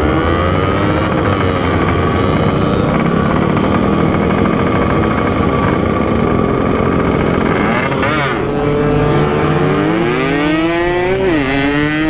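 Yamaha RX-King 135cc two-stroke engine with an aftermarket expansion-chamber exhaust, ridden hard at high revs. About eight seconds in the pitch dips and then climbs steadily, with a sharp drop and a fresh climb near the end, as the bike is shifted up a gear.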